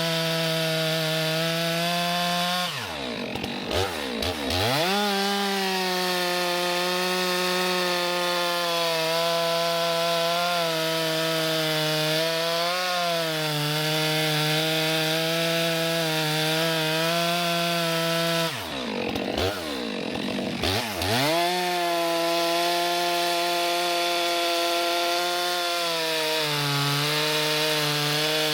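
Chainsaw engine held at full throttle while bucking logs, its note wavering slightly under the load of the cut. Twice, about three seconds in and again around twenty seconds, the throttle drops off to a low idle and the saw revs straight back up for the next cut.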